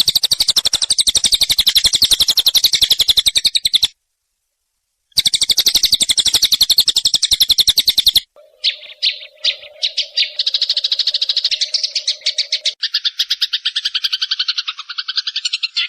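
Eurasian tree sparrow fighting calls: a loud, very fast chattering, two runs of about four and three seconds with a short break between them. The pattern changes at about eight seconds and again near thirteen seconds to other rapid note series.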